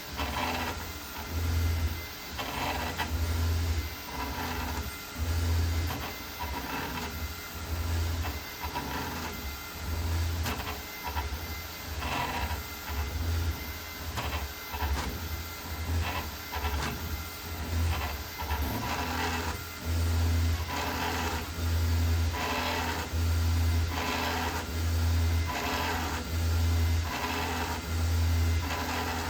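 Creality Ender 5 Max 3D printer running with a grinding noise that comes and goes in short, irregular bursts, each carrying a low hum under a rough, grating sound.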